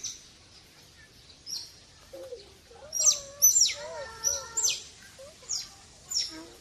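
Otters chirping: a run of sharp, high calls, each falling quickly in pitch, coming fastest in the middle. The otters are begging, crowding the children as if about to be fed.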